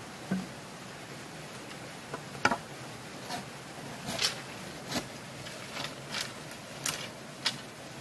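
About a dozen short, sharp taps and clicks at irregular intervals over a steady hiss; the loudest comes about two and a half seconds in.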